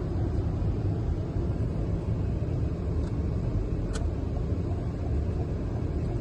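Steady low rumble of road and engine noise inside a moving taxi's cabin, with a single sharp click about four seconds in.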